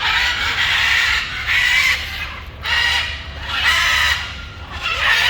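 Birds giving a series of about five loud, harsh, raspy squawks, each under a second long, with short pauses between them.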